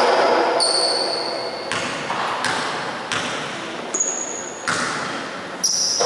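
Basketball shoes squeaking on the court floor in several short, high squeals, mixed with sharp thumps from the ball or players' feet. A steady, echoing hall noise runs underneath.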